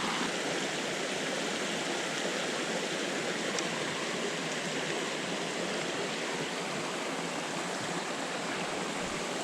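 Creek water running steadily over rocks, a continuous rushing sound.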